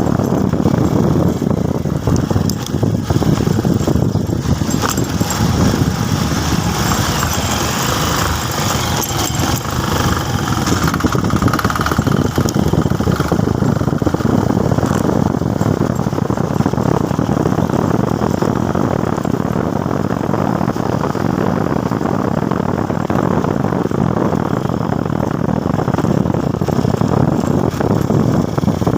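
Motorcycle engine running on the road while riding, mixed with steady wind noise over the microphone.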